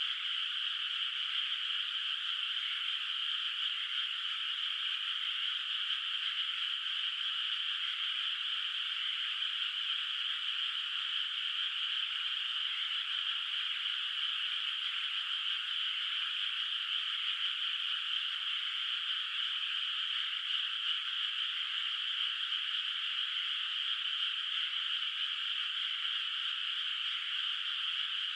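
Chorus of many frogs calling at once from a flooded rice paddy at night. It is a steady, dense wall of calls with no pauses and no lows.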